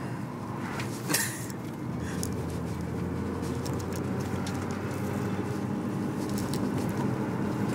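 Nissan GT-R R35's twin-turbo V6 and the road noise, heard from inside the cabin while cruising: a steady drone. A single sharp knock sounds about a second in.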